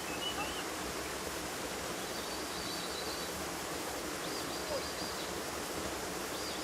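Steady rush of running water, with a few short high chirps over it.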